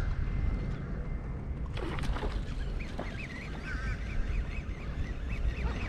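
Birds calling in a quick series of short, high calls over a steady low rumble.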